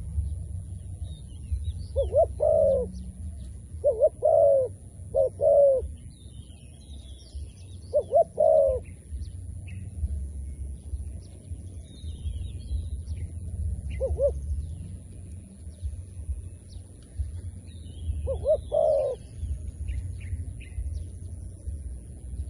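A decoy dove cooing in short phrases of two or three low notes, about six phrases spread across the stretch, with a single note a little past the middle. Faint high chirps of small birds and a steady low rumble run underneath.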